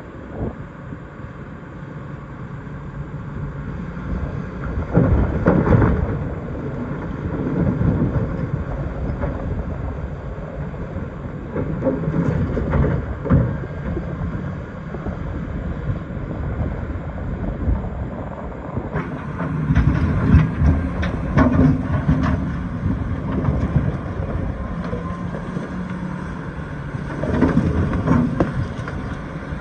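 Diesel excavator working: the engine runs steadily and surges under hydraulic load several times, while the bucket scrapes and knocks against rock in bursts of clatter.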